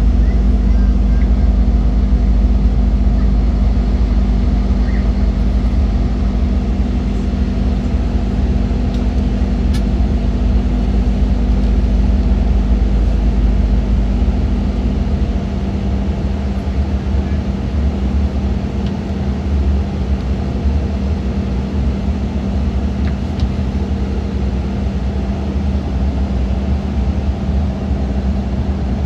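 Cabin noise of an Embraer E190 airliner on approach: a steady low rumble of airflow with a constant engine hum, the hum and the deepest rumble shifting slightly about halfway through.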